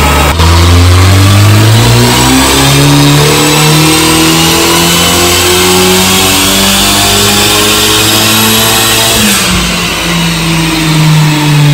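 Honda Civic Type R (FK8) 2.0-litre turbocharged four-cylinder making a full-throttle pull on a chassis dyno through its aftermarket downpipe and Magnaflow catback exhaust. The engine note climbs steadily for about nine seconds with a high whine rising alongside, then the throttle closes and the revs fall.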